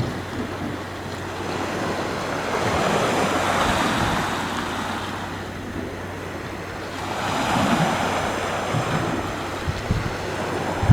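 Sea waves breaking and washing in, swelling and fading twice, with wind buffeting the microphone.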